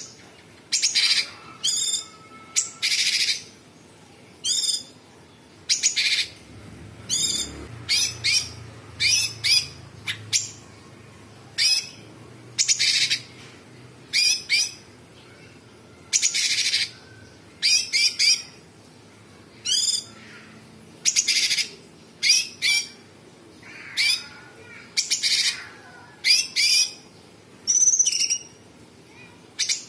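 Cucak cungkok calling: a string of short, loud, harsh calls at about one a second, some rasping and some made of quick falling notes.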